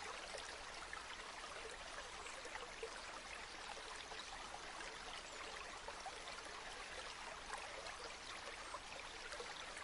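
River water flowing steadily, with many small irregular gurgles and splashes.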